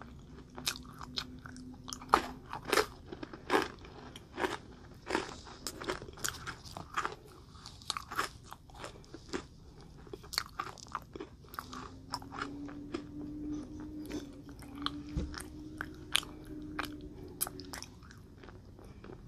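Close-miked crunching and chewing of hard-shelled candy, beginning with a small sugar-coated Easter egg candy: many sharp crackly crunches, denser in the first half and more scattered later. A faint low steady hum sounds briefly at the start and again in the second half.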